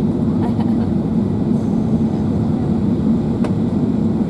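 Steady drone inside the passenger cabin of an Airbus A380: engine and airflow noise heard through the fuselage, with one faint click about three and a half seconds in.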